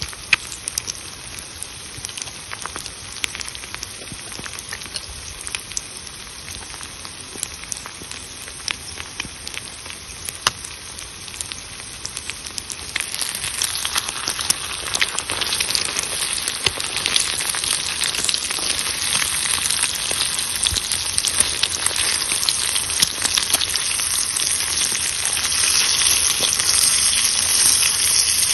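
Food sizzling in a pan over a crackling wood fire, with scattered sharp pops. The sizzle grows louder about halfway through and again near the end.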